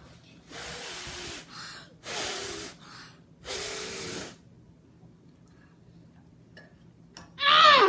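A person breathes out hard three times, each breath about a second long with a faint voiced edge. Near the end comes a loud vocal 'ooh' that falls in pitch.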